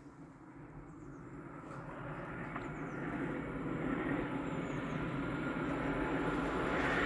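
A freight train approaching on the main line, its rolling rumble growing steadily louder throughout.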